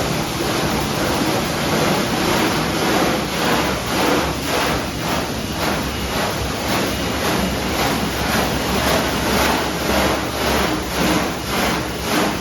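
Car wash machinery spraying water over a pickup truck: a loud, steady rush of spray that, from about four seconds in, pulses in quick repeated swells as the jets or brushes sweep across the truck.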